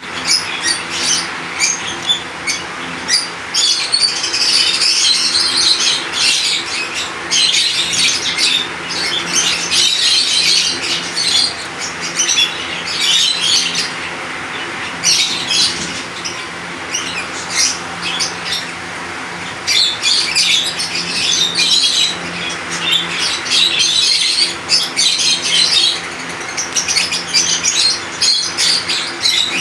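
Lovebirds chirping and chattering in dense, overlapping bursts that come and go in waves, with a steady low hum underneath.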